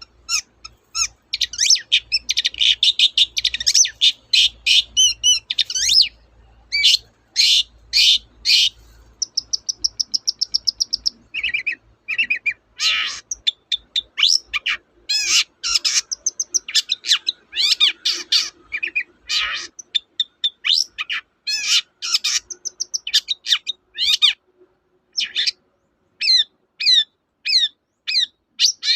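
Long-tailed shrike (cendet) singing a loud, fast, varied song packed with mimicked calls of other birds: harsh chattering, a buzzing trill about a third of the way in, and rapid runs of short sharp notes.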